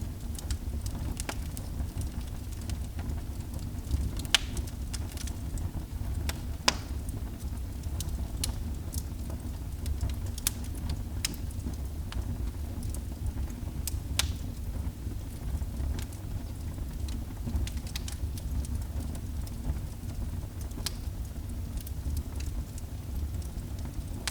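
Wood fire burning in a fireplace: a steady low rumble of flames with scattered sharp crackles and pops, a few louder ones about four, seven and fourteen seconds in.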